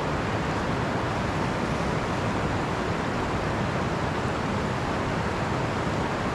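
Steady rushing of a river's rapids, an even, unbroken wash of water noise.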